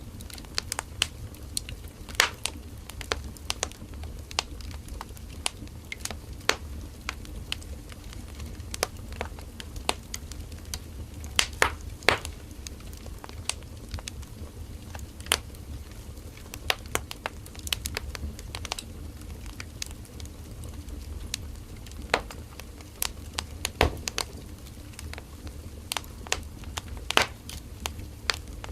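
Wood fire crackling: irregular sharp pops and snaps from burning firewood over a steady low rumble of the flames.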